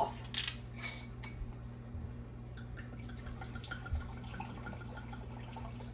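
A jar lid clicking as it is twisted off and set down in the first second, then faint dripping and small kitchen sounds over a steady low hum.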